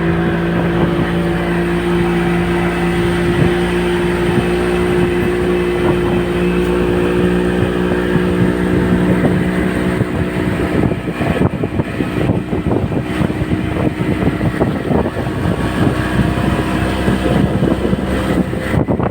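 Speedboat engine running at a steady pitch. About halfway through, a choppier rushing noise with rapid irregular knocks takes over and the engine tone fades.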